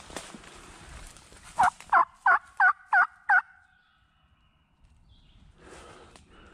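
A quick series of six loud turkey yelps, about three a second, each a short curved note.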